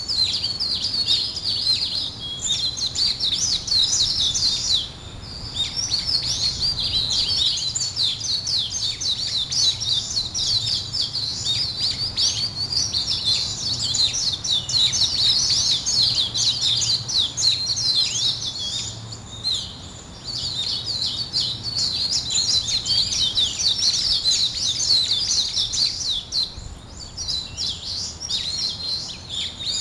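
Small birds chirping and twittering in a dense, fast stream of high notes, easing off briefly three times.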